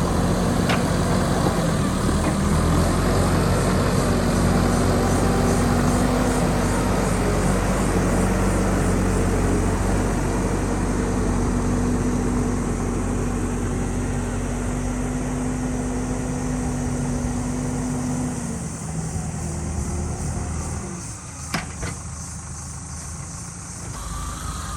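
JCB ecoXcellence backhoe loader's diesel engine running steadily, then dropping away about three-quarters of the way through. A single sharp click near the end.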